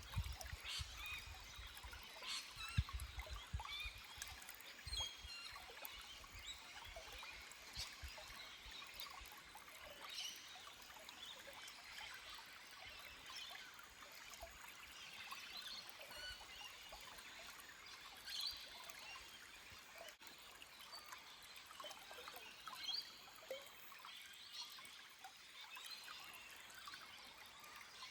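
Small forest stream trickling and splashing over rocks, a faint even rush dotted with little high splashes. A few low thumps come in the first few seconds.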